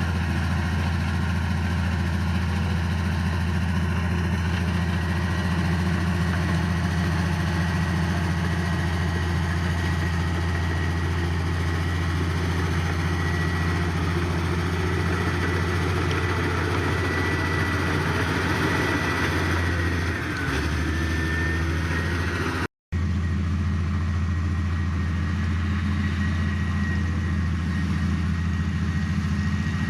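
Heavy machinery diesel engine running steadily, with a thin high whine over the low engine note. The sound drops out for an instant about three quarters of the way through, then carries on the same.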